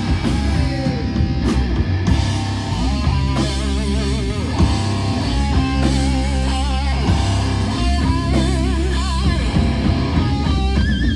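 Live heavy rock band playing: distorted electric guitars, heavy bass and drums, with a lead line held in wide, wavering vibrato.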